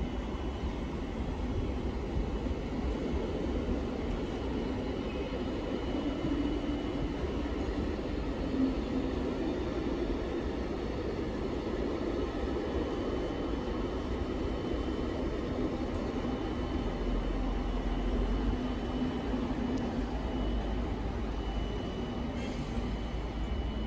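SNCB electric passenger train rolling slowly through the station: a steady rumble of wheels on rails with a low hum and a thin, high, steady whine.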